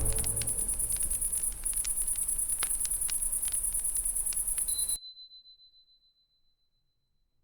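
Crickets chirping in a fast, steady pulse, with scattered sharp crackles of a campfire; everything cuts off suddenly about five seconds in, leaving a faint high steady tone for a moment.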